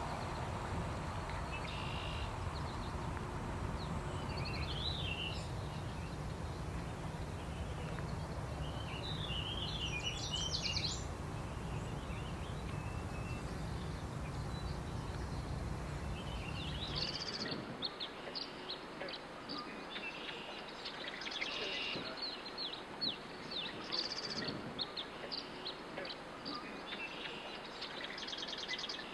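Wild birds singing and calling over a low, steady outdoor noise. About seventeen seconds in the low noise drops away and a busier song of quick, repeated falling notes takes over.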